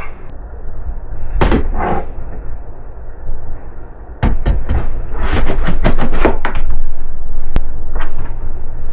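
Irregular knocks and thuds of recliner parts and packaging being handled during unboxing and assembly, with a dense cluster of knocks about halfway through.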